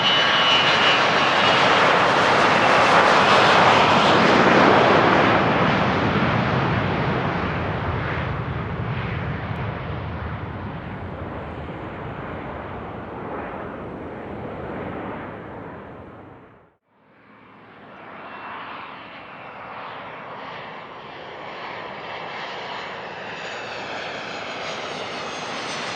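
Business jet's engines at takeoff power as it passes by, loudest a few seconds in and then slowly fading away. After a sudden break about 17 seconds in, another jet's engine noise comes in and slowly grows.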